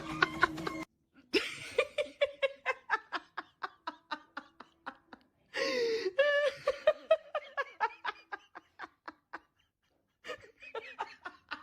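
A person laughing hard in several long runs of quick, breathy pulses, with short pauses between the runs.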